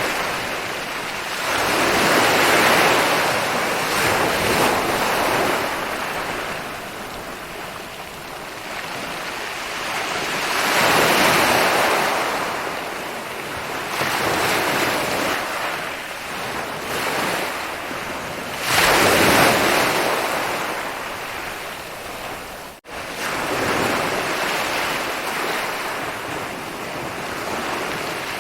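Ocean waves rolling in and breaking on a beach, three big surges about eight to nine seconds apart, each swelling up and washing back down. A brief dropout in the sound comes about three-quarters of the way through.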